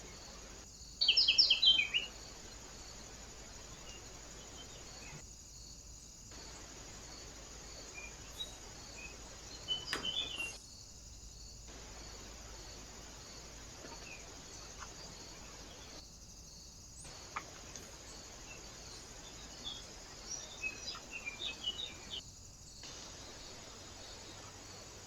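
Small birds chirping: a loud burst of high calls about a second in, a few more around the middle, and a quick run of calls near the end, over a steady high hiss. Several brief silent gaps break the sound where separate trail-camera clips are joined.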